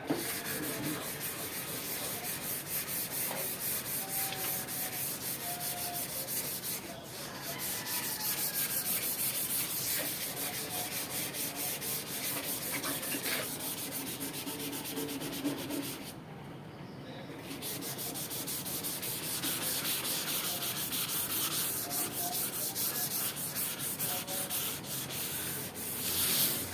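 Hand sanding of a rusted sheet-metal range hood: sandpaper rubbed back and forth in quick strokes, a steady scratchy hiss that stops briefly twice, about seven seconds in and again around sixteen seconds in.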